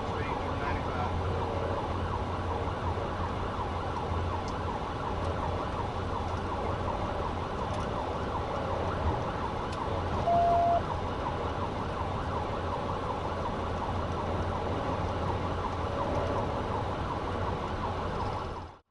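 Police siren wailing over steady engine and road noise from a car in pursuit, with one short beep about ten seconds in.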